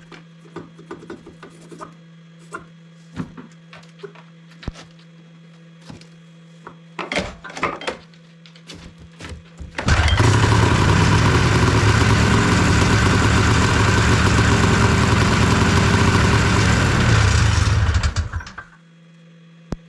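Scattered knocks and clatter, then a freshly repaired 277cc engine starts about ten seconds in, runs steadily for about eight seconds and cuts off. It sounds pretty good, with no exhaust leak after a broken head bolt was replaced.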